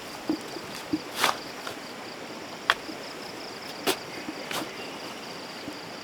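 An insect trills steadily at a high pitch, with a fast, even pulse. Over it come half a dozen irregular scrapes and knocks of a digging tool working soil, one a longer scrape about a second in.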